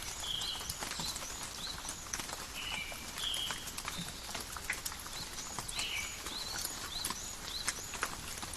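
Steady rain falling, with many scattered sharp drip taps. A bird repeats a short chirping phrase about every three seconds.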